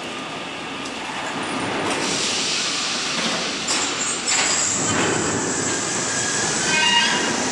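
R32 subway train running on the tracks at a station, a steady rumble that grows louder after about a second. A high metallic wheel squeal comes about four seconds in, and several high tones sound together near the end.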